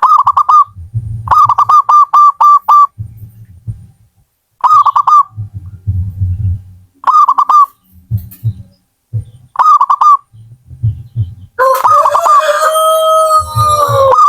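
Zebra dove (perkutut) cooing in short bursts of quick repeated notes, one phrase every two seconds or so. Near the end a longer, steadier call with two pitches comes in.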